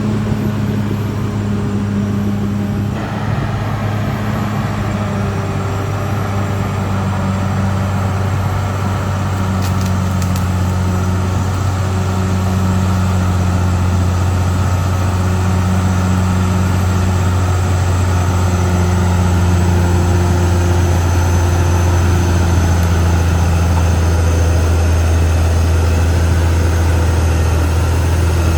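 Caterpillar D6R XL bulldozer's diesel engine running with a steady deep drone. A wider noise joins about three seconds in, and the level rises slightly toward the end.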